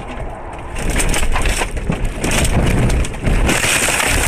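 Vehicle crash: a loud, continuous run of crunching and scraping with many knocks, as car body panels crush and grind.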